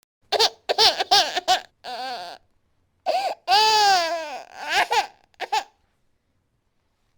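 Infant crying in short, sobbing bursts, with one longer wail in the middle; the crying stops about two seconds before the end.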